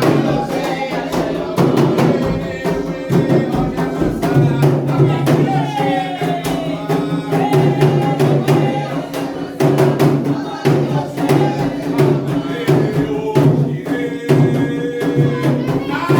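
Candomblé ritual music for Xangô: a rapid, steady hand-drum rhythm on the atabaques, with voices singing a chant over it.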